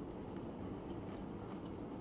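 Faint chewing of a piece of fried food, mouth closed, over a steady low room hum.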